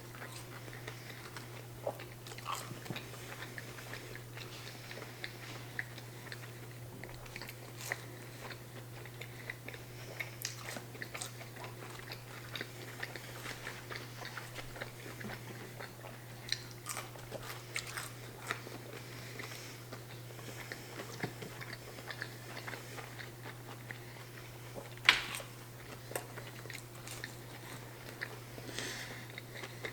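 Close-miked chewing and biting of fried chicken nuggets: wet mouth clicks and small crunches scattered through, over a steady low hum. One sharper click about 25 seconds in.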